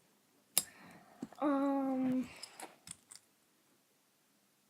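A few sharp clicks and taps of metal fidget spinners being handled, with a short held hum-like tone about a second and a half in.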